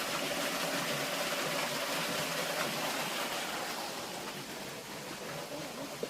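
Steady rush of flowing water from a creek and its falls, a little quieter from about four seconds in.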